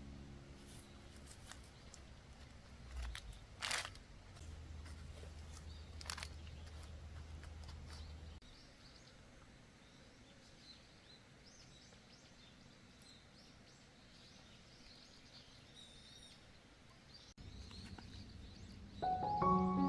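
Faint outdoor garden ambience with small birds chirping. A few sharp clicks and rustles come in the first several seconds, and soft background music begins near the end.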